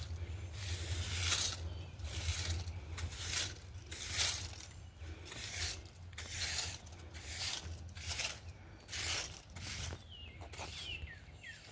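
Repeated dry rustling and brushing, about one to two strokes a second, as of plant foliage or husks being handled or pushed through. A few short falling chirps come in near the end over a steady low hum.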